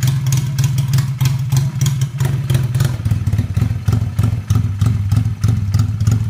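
A homemade two-cylinder 250cc motorcycle engine built up from Honda Wave parts, running on the stand in a rapid, even putter. About two seconds in, its speed drops to a lower, steady idle.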